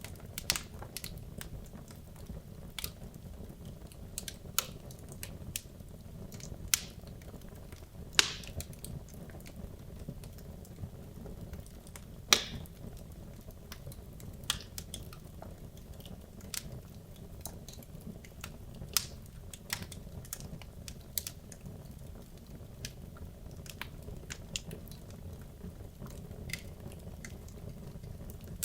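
Wood logs burning in a fireplace: a steady low rumble of flame with irregular sharp crackles and pops, a few of them louder.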